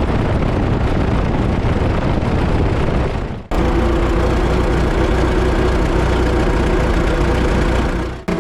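Farmall tractor engine running steadily at idle, with a strong low rumble. The sound breaks off abruptly and resumes about three and a half seconds in, and again near the end.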